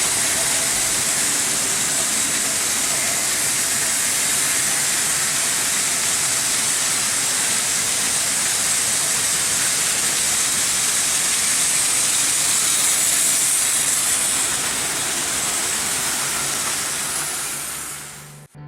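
Märklin H0 model trains running on metal M-track make a steady rushing, hissing noise. It fades out near the end.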